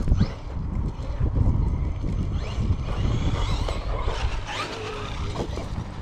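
Traxxas Maxx V2 RC monster truck's 1515 2200 kV brushless motor whining up and down in pitch as it is driven, over a steady low rumble.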